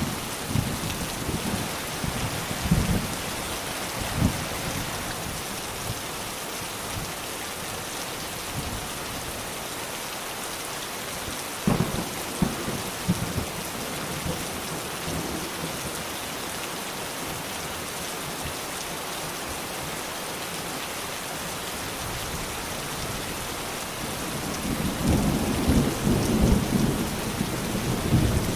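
Steady heavy rain falling, with low rumbles of thunder: a few short ones near the start and about halfway, and a longer, louder rumble near the end.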